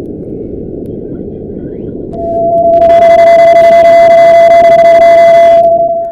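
Electronic 'moon sound' for Jupiter's moon Pasiphae, played back: a low rumbling noise, then about two seconds in a loud steady beep-like tone sets in, joined for a few seconds by a hissy, static-like upper layer, all cutting off near the end.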